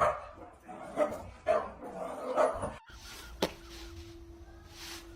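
A dog barking, four short barks over about three seconds. After a sudden break comes a single click, then a faint steady hum.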